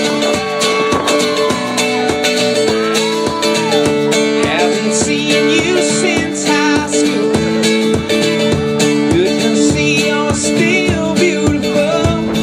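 Live acoustic guitar music: strummed guitars playing the instrumental opening of a song.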